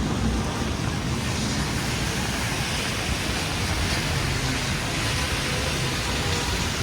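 Steady rain falling on a city street, an even hiss, with faint traffic rumbling underneath.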